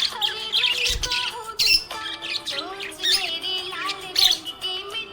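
Budgerigar chirping and warbling in quick, busy runs of short varied notes, with background music underneath.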